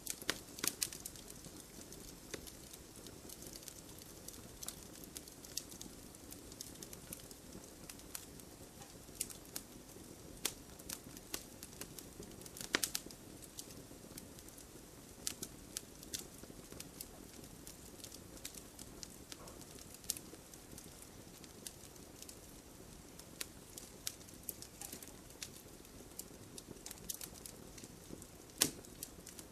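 Wood campfire burning with a low steady hiss and irregular sharp crackles and pops, two louder pops about 13 seconds in and near the end.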